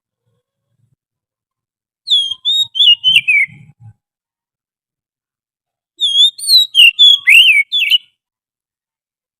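Oriental magpie-robin song: two bursts of loud, clear whistled notes, each about two seconds long, with quick rising and falling slurs, separated by a few seconds of silence.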